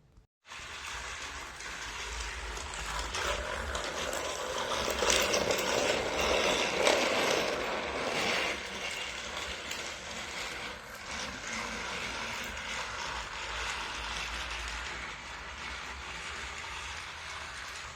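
A battery-powered Thomas & Friends Ashima toy engine running along its track, with its small motor and gears going steadily. It starts abruptly about half a second in and is loudest a few seconds into the run.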